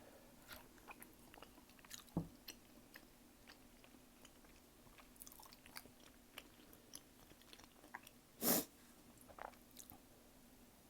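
Close-miked chewing and biting of tteokbokki and gimbap: soft, wet mouth clicks scattered throughout, a low thump about two seconds in, and one louder, brief noisy burst about eight and a half seconds in.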